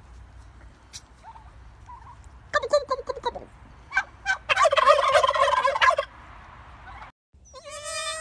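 Turkey gobbling twice: a short rattling gobble about two and a half seconds in, then a longer, louder gobble from about four and a half to six seconds. Near the end, after a brief break, a goat starts bleating.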